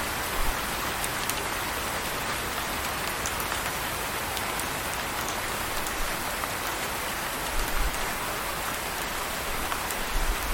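Steady rain falling, a dense even patter with scattered individual drop ticks, and a couple of brief low thuds about three-quarters of the way through and near the end.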